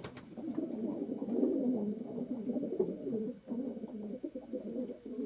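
A flock of racing pigeons cooing, many low coos overlapping continuously.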